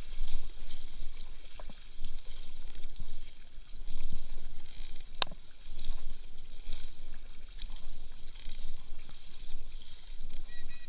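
Kayak paddle strokes in water, swelling about every two seconds, with wind rumbling on the microphone. A single sharp click comes about five seconds in.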